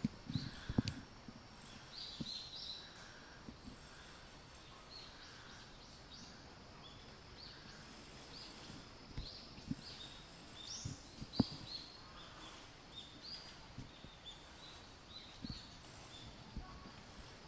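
Small birds chirping over and over in short high calls, with a few dull low thumps scattered among them, the loudest about eleven seconds in, against a faint steady background hiss.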